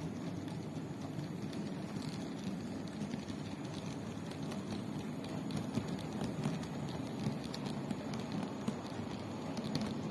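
Miniature model train of a CC 201 locomotive rolling along its track: a steady low rumble with irregular light clicks from the wheels on the rails.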